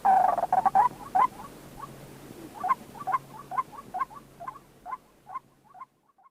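White-breasted waterhen calling: a run of loud, harsh calls in the first second, then short clucking notes about two a second that fade away near the end. A faint steady hum lies underneath.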